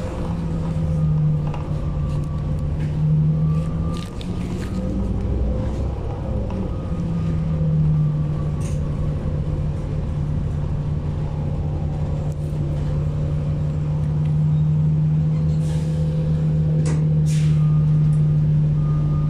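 City transit bus heard from inside the cabin while under way: a steady engine and drivetrain drone with a strong low hum that dips for a moment about six seconds in, and scattered rattles and clicks.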